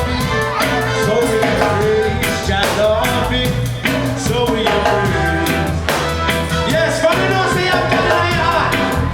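Live reggae band playing: bass and drum kit keeping a steady beat under melodic instrument lines.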